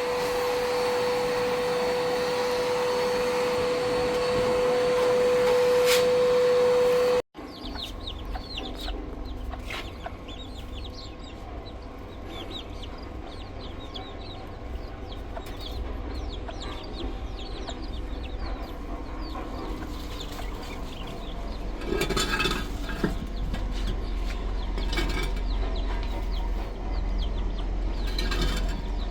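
A steady machine hum with a constant mid-pitched tone, cut off abruptly about seven seconds in. After that, chickens clucking and small birds chirping many times over a low rumble.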